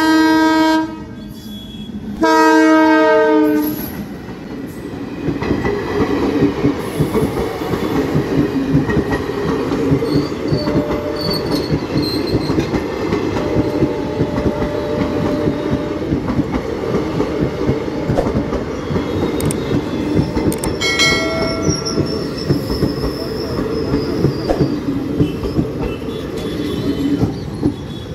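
Passenger train horn blowing: one long blast that ends about a second in, then a second blast. Then the coaches run past with a steady rumble and fast clickety-clack of wheels over the rail joints, with a brief high squeal about three quarters of the way through.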